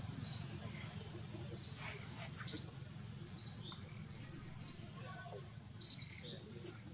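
A bird calling a short, high chirp over and over, about once a second, with two chirps close together near the end, over a low steady background rumble.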